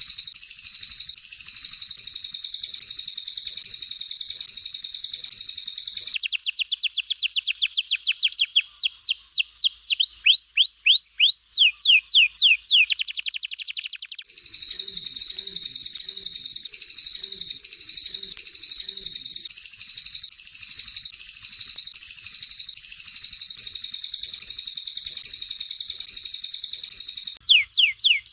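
Recorded songbird song of a canary and a cililin for bird training: a dense, high-pitched buzzing chatter, broken for several seconds in the middle and again near the end by rapid runs of downward-sweeping whistled notes.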